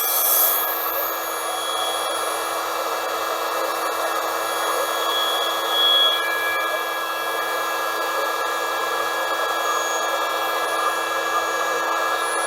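Small electric air pump running steadily, blowing air into an inflatable mattress pillow.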